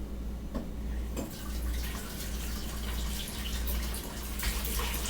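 Water running from a tap and splashing as sardines are rinsed under it to wash off hot sauce; the flow comes on about a second in.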